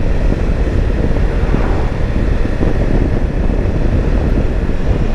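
Steady wind and road noise on a helmet-mounted microphone while riding a Kawasaki Versys-X 300 motorcycle at road speed, with the engine blended into the rush.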